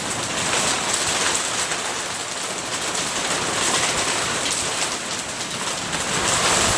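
Heavy rain pouring down steadily in a thunderstorm, an even hiss of rain on hard surfaces.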